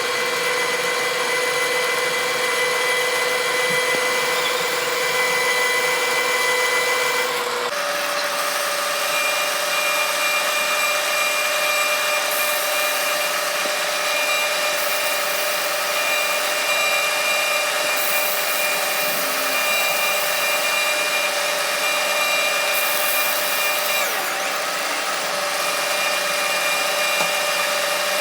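Metal lathe running steadily while drilling a hole in a metal workpiece, a constant machine hum and whine. The pitch steps up about eight seconds in, and short spells of high hiss come and go later on.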